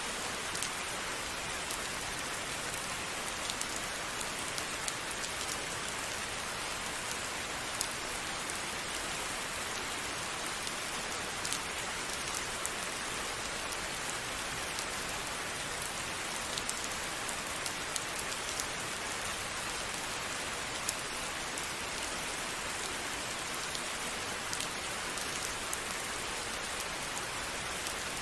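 Steady rain falling, an even hiss with scattered sharper drips of individual drops.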